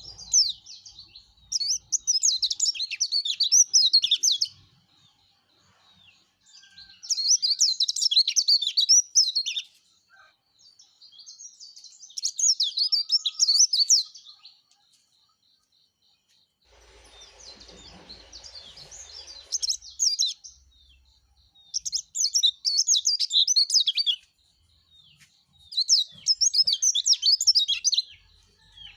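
Yellow-breasted white-eye (pleci) singing vigorously, six bursts of fast, high twittering song of two to three seconds each with short pauses between. A brief hiss-like noise comes about two-thirds of the way through, under one of the bursts.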